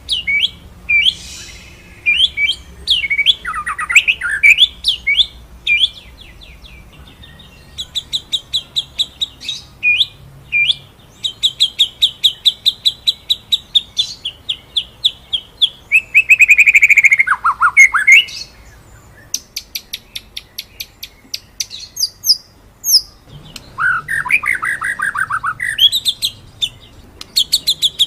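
White-rumped shama (murai batu) in full song, 'ngeroll nembak': fast runs of short repeated high notes, broken by loud swooping whistles that drop in pitch.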